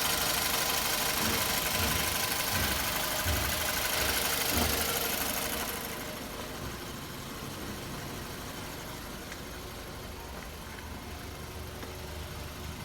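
Toyota 1AZ inline-four engine running during a WAKO'S RECS intake and combustion-chamber cleaning treatment, loud with a strong hiss for about the first five seconds, then quieter and steadier at idle.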